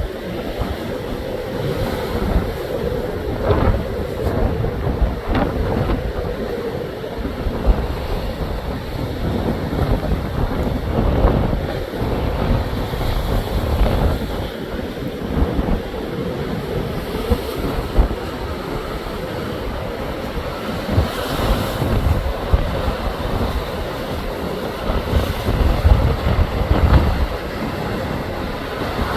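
Waves surging and breaking at high tide, with strong gusts of wind buffeting the microphone in uneven low rumbles.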